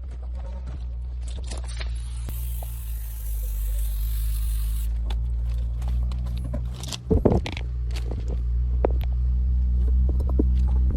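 A heavy vehicle engine running steadily, with a hiss lasting about two seconds early on and a loud knock about seven seconds in.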